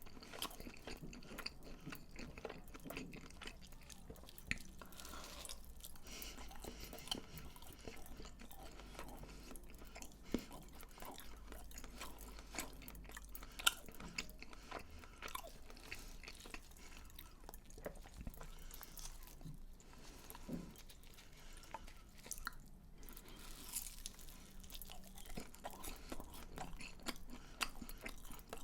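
Close-miked chewing and crunching of crisp fried food, with many small sharp crackles and bites throughout.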